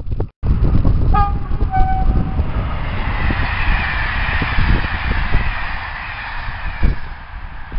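Train horn sounding two short toots about half a second apart, followed by a train running past with a low rumble and a high rushing rail noise that eases near the end.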